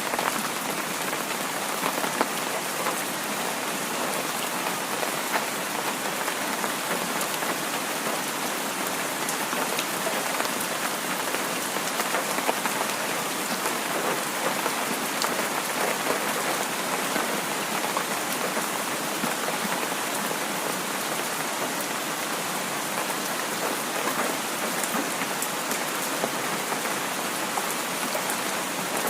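Heavy rain falling steadily, an even hiss dotted with many small drop ticks.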